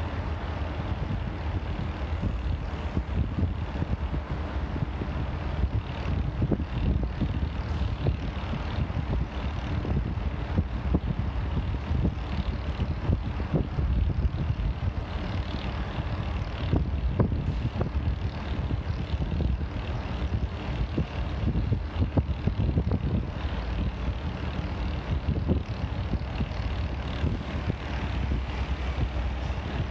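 TasRail TR-class diesel locomotive TR10 hauling a cement train away slowly: a steady low engine drone with occasional sharp clicks and knocks.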